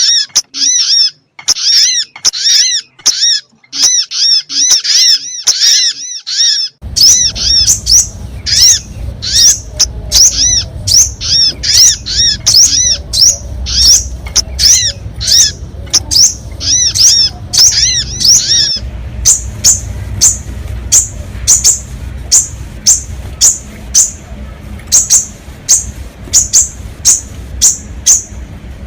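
Bird-lure recording of the sogon's call: a fast, loud series of short arching chirps with several overtones, two or three a second. About seven seconds in, a low steady hum comes in beneath them, and about two-thirds of the way through the notes turn shorter and higher.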